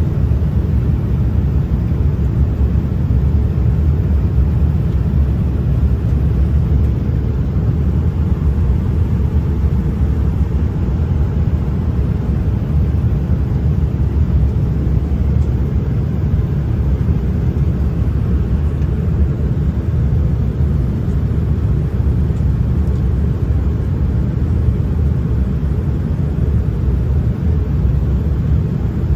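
Steady low rumble of an airplane in flight, unchanging throughout.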